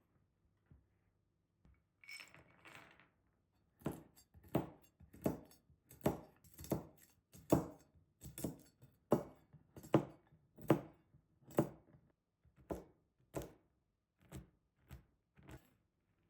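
Knife chopping on a cutting board in steady strokes, about three every two seconds, spacing out near the end, after a brief rustle.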